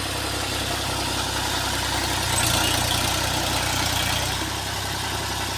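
Tractor diesel engine idling steadily, getting a little louder for a couple of seconds in the middle.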